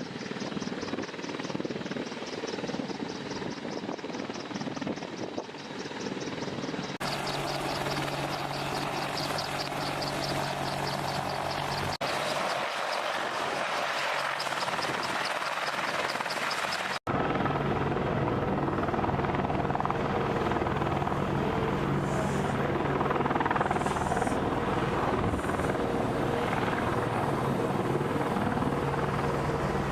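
Helicopter rotors and turbine engines running, in several clips cut together, so the sound changes abruptly about seven, twelve and seventeen seconds in. A fast, even rotor pulsing runs through the first part; the last part is a steadier engine drone with low hum tones.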